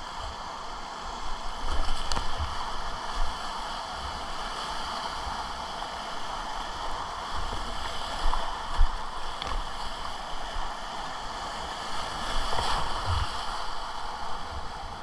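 River rapids rushing steadily around a whitewater kayak, with occasional low thumps and splashes of water against the boat and paddle.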